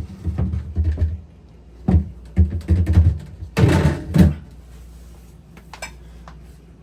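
Refrigerator drawer being fitted back into the fridge: a series of knocks and clunks, then a sliding scrape about three and a half seconds in, after which it goes still.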